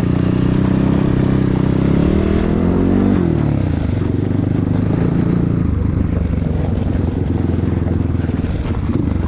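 Enduro motorcycle engine running at low revs, revving up briefly about two and a half seconds in, then dropping back and running steadily.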